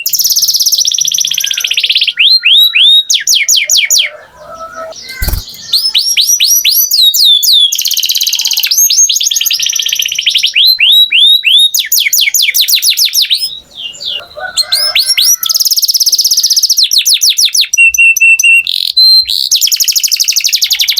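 Domestic canary singing: long phrases of fast, repeated high notes and sweeping trills, one run after another, with two short breaks in the song.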